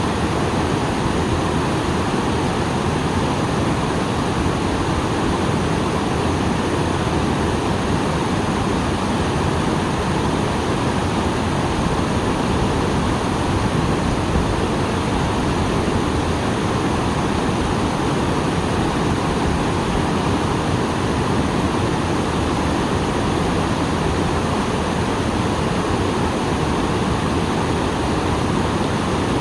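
Small waterfall after rain: water pouring and splashing in a steady, unbroken rush.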